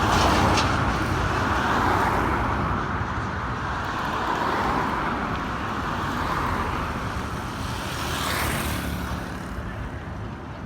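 Road traffic: a steady wash of passing motor vehicles, with one vehicle passing close about eight seconds in.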